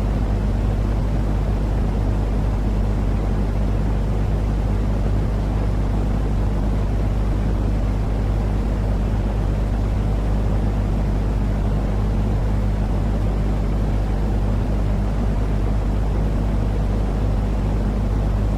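Steady low rumbling noise from a baby sleep-aid noise track, heavy in the bass with a constant low hum underneath. It does not change or break.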